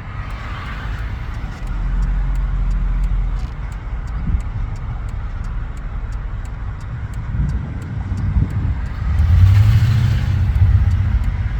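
Car engine and road noise, a steady low rumble that grows louder about nine seconds in.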